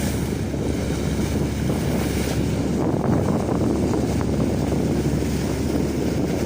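Steady wind rumbling on the microphone over washing water on the sea, aboard a boat.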